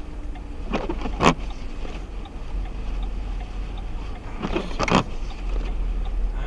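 Two-way radio receiver noise between transmissions: a steady hum and hiss, broken by two short sharp crackling bursts, about a second in and again near five seconds, as a station keys up and drops off.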